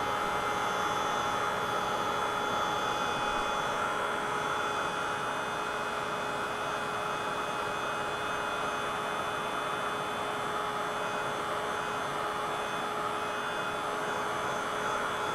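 Handheld craft heat tool running steadily: an even blowing hiss with a steady motor hum, held over a layer of clear texture spray to dry it.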